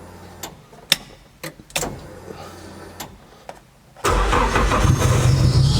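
A few sharp clicks, then about four seconds in the Nissan S14's SR20DET four-cylinder turbo engine fires straight away and settles into a steady idle on its freshly adjusted cam timing.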